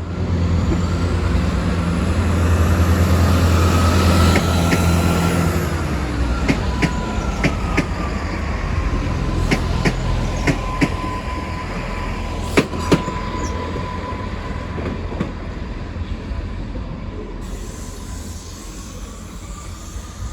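A train running through the station: a loud low rumble for the first five seconds, then wheels squealing on the rails as a steady high tone, with scattered sharp clacks of wheels over rail joints. It fades toward the end.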